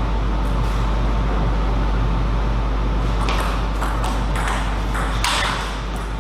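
Table tennis ball clicking off bats and table in sharp ticks, with a quick run of hits about halfway in, over a steady low hum.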